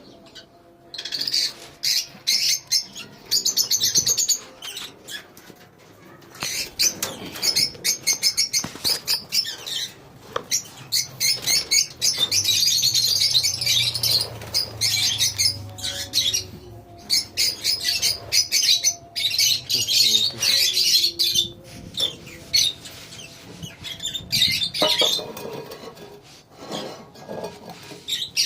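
A colony of lovebirds chattering: many rapid, shrill chirps overlapping in loud bursts, with short lulls between them.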